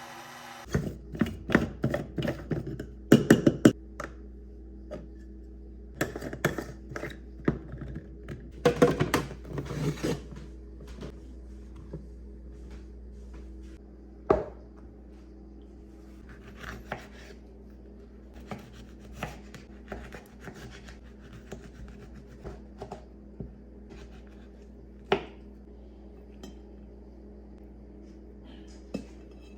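Dishes and utensils being handled: clinking, scraping and rubbing in bursts, then a few single knocks, over a steady low hum.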